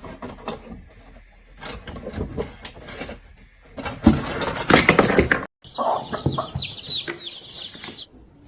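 Bird-like animal calls: short clucking calls, a louder burst of calling about four seconds in, then after a sudden break about two seconds of rapid high chirping.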